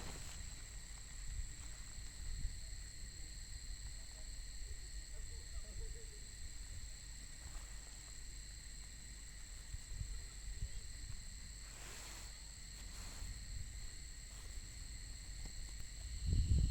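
Night insects, crickets, trilling steadily at several high pitches. Beneath them, wind buffets the microphone in an uneven low rumble that grows stronger near the end.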